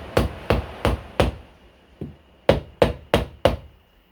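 A hammer striking a coconut shell again and again, about three blows a second, trying to crack it open. There is a pause of about a second in the middle, then the blows resume.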